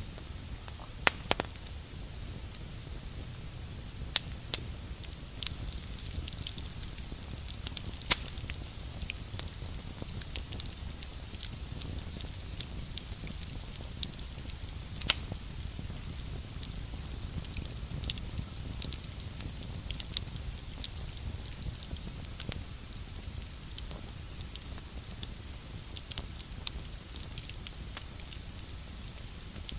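Wood campfire crackling, with irregular sharp pops throughout over a steady low rumble.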